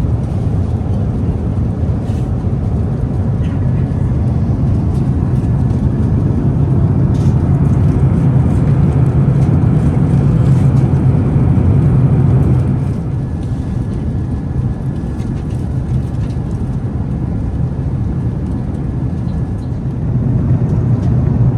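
Steady in-flight cabin roar of an Airbus A380, a deep rush of airflow and engine noise. It swells over the first several seconds, drops suddenly about two-thirds of the way through, and picks up again near the end.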